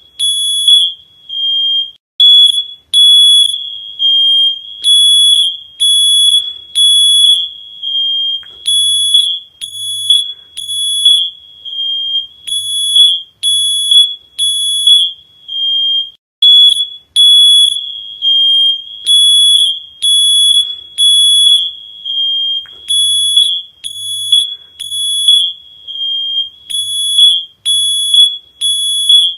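High-pitched electronic alarm beeping loudly and repeatedly, each beep about half a second long, roughly one a second and mostly in groups of three with short pauses between groups.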